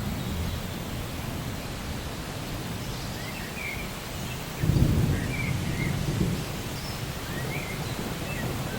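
Rainforest ambience of steady rain with a low thunder rumble that swells about halfway through, and short chirping bird calls repeating through the second half.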